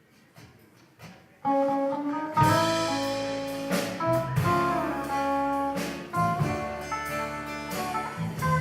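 A live country band starts an instrumental intro. A few faint taps come first, then a guitar line about a second and a half in, and the full band with bass joins a second later.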